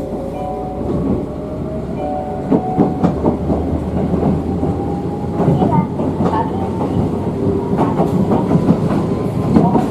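Toyama Chiho Railway electric train running, its wheels clattering over the rail joints, with a faint motor whine that slowly rises in pitch as it gathers speed.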